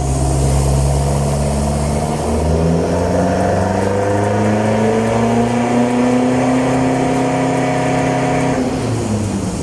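Mitsubishi Strada pickup's engine and exhaust under full throttle on a chassis dyno, the revs climbing steadily for about eight seconds, then the throttle is lifted and the revs fall away near the end.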